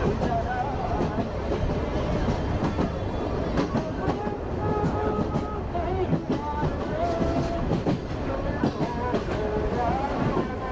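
Sagano Romantic Train rolling along the track, heard from on board: a steady rumble with the clickety-clack of wheels over the rails.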